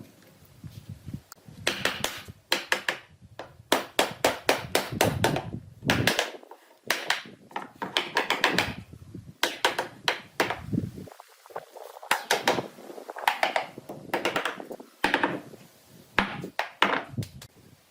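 Knocking and tapping of hard objects: many sharp strikes in irregular runs, some quick bursts of several blows, with short pauses between.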